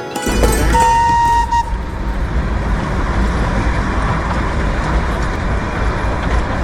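A horn toots once, a single held note lasting about a second, over a steady rumble of running vehicles and traffic.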